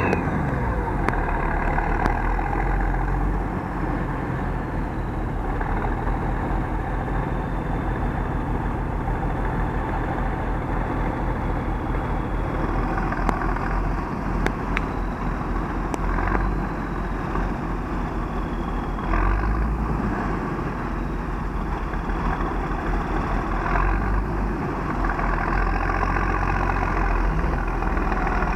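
Large diesel farm tractor engine running steadily, with a deep, even rumble.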